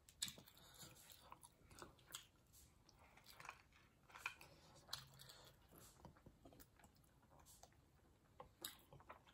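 Faint chewing and small wet mouth clicks of people eating steamed momo dumplings, with irregular soft ticks scattered through.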